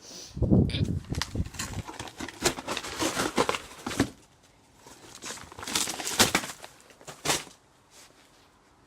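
Cardboard box being struck and crushed with a vacuum cleaner pole, crumpling and tearing. It comes in two runs of rapid knocks and crinkling, with a short pause about four seconds in.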